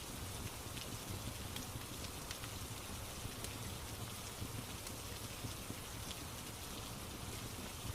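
Steady rain falling, with scattered faint ticks and crackles over a low, even rumble.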